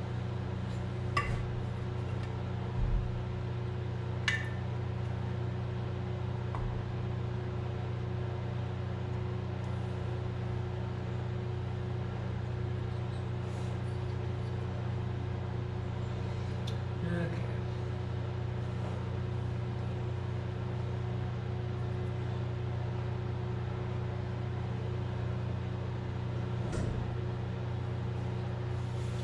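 Steady low hum, with a few light clinks of small metal chainsaw parts and tools being handled, about one, four and seventeen seconds in.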